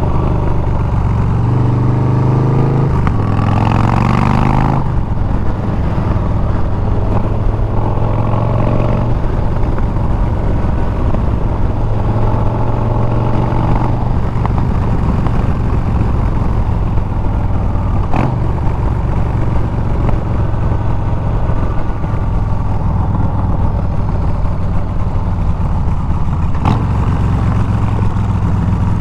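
Harley-Davidson Milwaukee-Eight 114 V-twin running through Bassani exhaust while riding, its pitch rising and then dropping about five seconds in before settling into a steady cruise.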